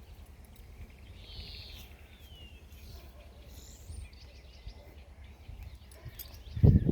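Faint birdsong, a few scattered calls and chirps, over a steady low rumble of outdoor background noise. Right at the end a sudden loud low-pitched noise breaks in.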